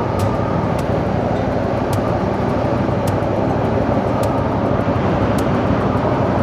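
CFMoto 450NK motorcycle running at cruising speed, its engine drone buried under steady wind rush on the rider's microphone.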